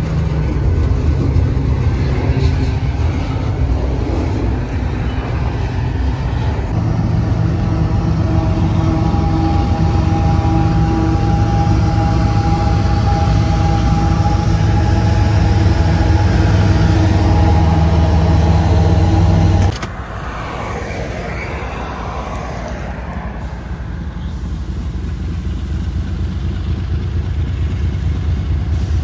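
Union Pacific freight train rolling past: a loud, steady rumble of wheels on rail with a few held tones. About twenty seconds in it drops off abruptly to a quieter rumble that slowly grows again.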